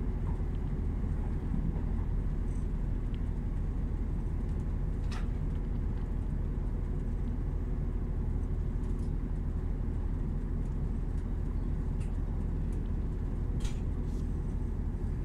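Steady low rumble of a Northern Class 170 Turbostar diesel multiple unit running along the line, heard from inside the passenger carriage, with a couple of faint clicks.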